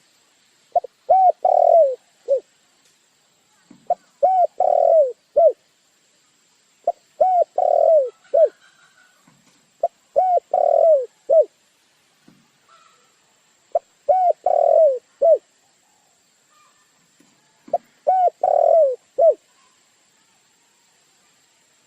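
Dove cooing: a phrase of a short note, two longer arched coos and a short closing note, repeated six times about every three to four seconds.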